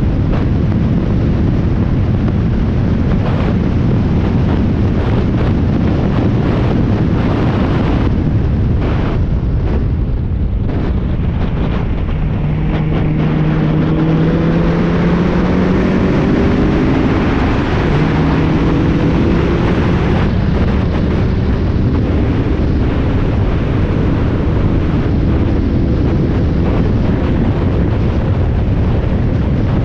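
Spec Miata's four-cylinder engine running at track speed, heard under heavy wind noise on the microphone. About ten seconds in it eases off briefly, then the engine note climbs, drops at a gear change around eighteen seconds in, and climbs again.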